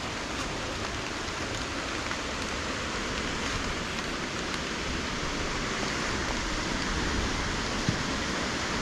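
Steady rushing of a waterfall in full spate, mixed with falling rain, growing slightly louder.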